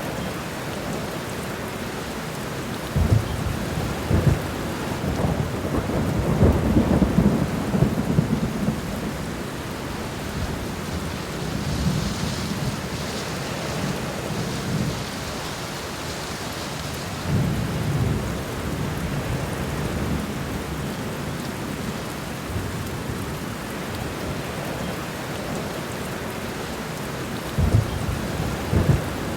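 Steady rain falling, with low rumbles of thunder rising over it: a long rolling one in the first third, a shorter one a little past halfway and another near the end.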